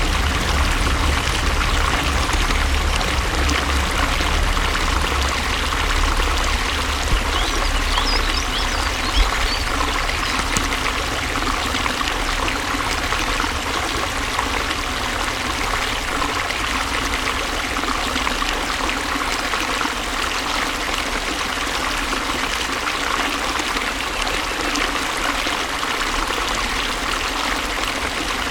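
Flowing water running steadily, a continuous rushing and trickling with a deep rumble underneath.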